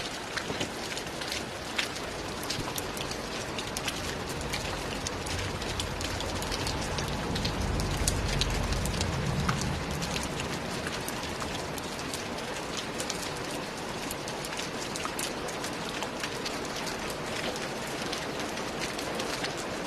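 Steady rain falling on a roof, an even hiss thick with the ticks of single drops. A low rumble swells for a few seconds around the middle and fades again.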